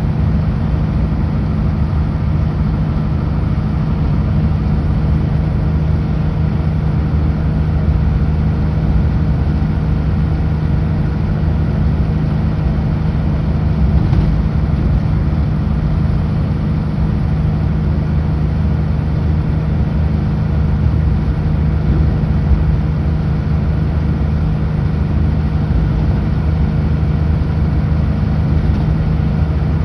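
Kenworth W900L truck's diesel engine running steadily at highway speed, a constant low engine note with road noise.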